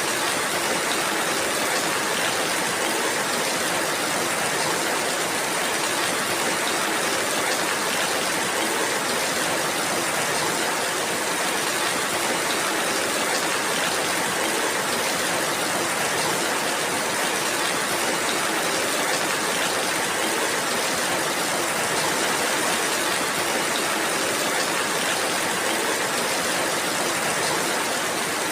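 Steady rainfall, an even hiss of rain that does not change.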